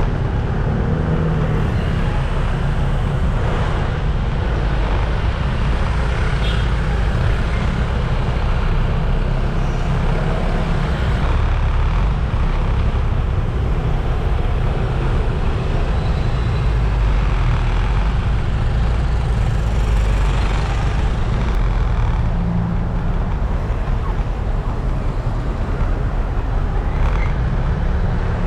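Steady traffic noise from riding a scooter through busy city streets: motorbike and car engines all around, with a continuous low rumble.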